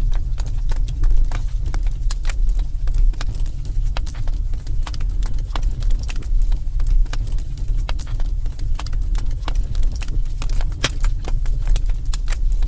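Wood fire crackling and popping in a fireplace: irregular sharp snaps over a steady low rumble of burning.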